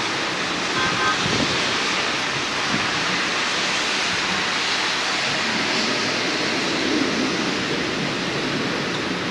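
Steady, even hiss of heavy thunderstorm rain, with no thunderclap.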